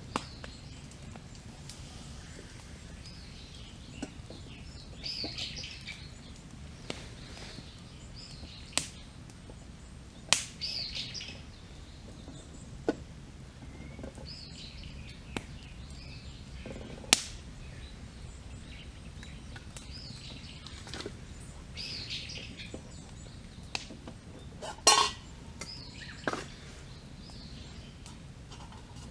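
Wood campfire crackling, with a sharp pop every few seconds. A bird sings short phrases over it, a phrase every few seconds.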